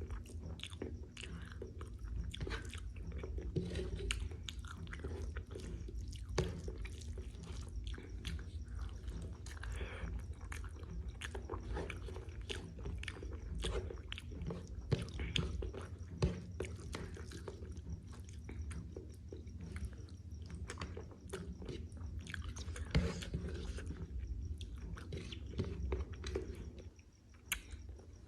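Close-miked chewing and biting: a person eating spicy jackfruit masala with rice, giving wet mouth sounds and many small clicks, over a steady low hum.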